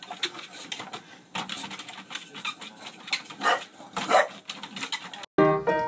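A dog makes two short, louder vocal sounds over a busy patter of small clicks and scuffs. Piano music cuts in suddenly near the end.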